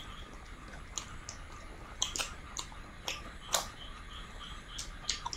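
Close-up mouth sounds of people eating rice and curry by hand: irregular short, sharp wet clicks and smacks of chewing, a few a second at most, over a faint steady high tone.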